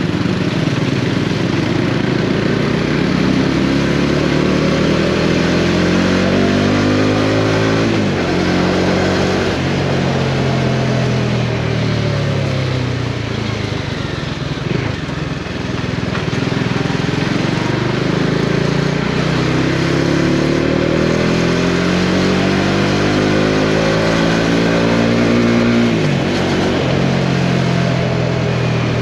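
Bajaj Dominar 400's single-cylinder engine under way, its pitch climbing for several seconds as it accelerates, then dropping sharply about a third of the way in. It eases down in the middle, then climbs again and drops sharply near the end, over a steady rushing noise.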